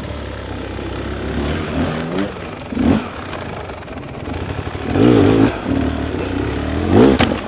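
Enduro dirt bike engine running and revving in repeated bursts, the pitch climbing about two to three seconds in, again around five seconds, and loudest near the end.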